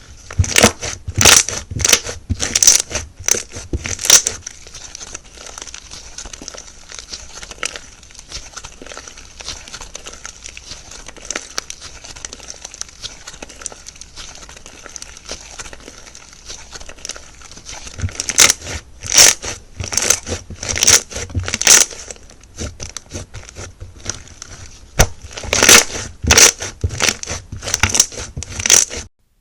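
Slime being pressed and squeezed by hand, giving runs of sharp clicking pops: loud clusters at the start, about 18 seconds in and about 25 seconds in, with quieter fine clicking between. It cuts off suddenly just before the end.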